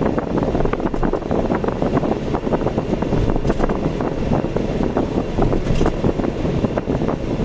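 Road and wind noise of a vehicle driving, heard from on board: a steady rumble with many small rattles and knocks throughout.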